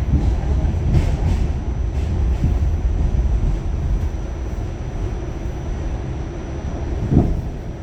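Pullman-Standard R46 subway car running on the track, heard from inside the car: a steady low rumble that eases off somewhat in the second half, with a single sharp clunk near the end.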